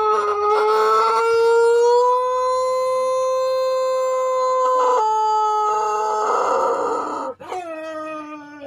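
Pelung rooster crowing: one very long, drawn-out crow held steady for about seven seconds, its pitch stepping down about five seconds in before it fades. About seven and a half seconds in, another crow starts, falling in pitch.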